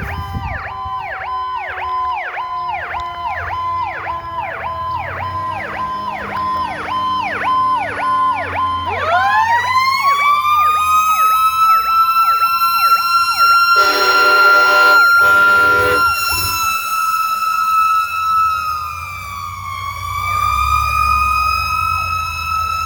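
Fire truck running its electronic siren in a fast yelp alongside a mechanical siren that slowly winds down, then spins back up about nine seconds in to a steady high wail, dipping briefly and rising again near the end. A horn blast of about two seconds sounds in the middle.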